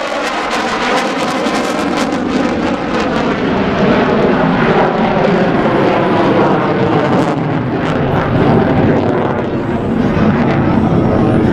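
F-16 Fighting Falcon fighter jet's engine, a loud, steady rushing noise as the jet flies its display. A wavering, sweeping tone runs through it for the first few seconds.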